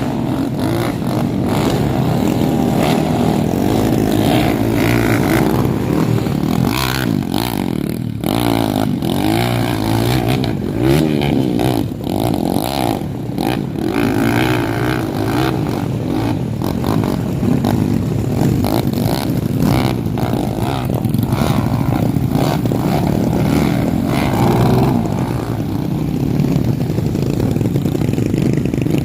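Dirt bike engine being ridden hard, revving up and falling back again and again, with clattering and knocks throughout.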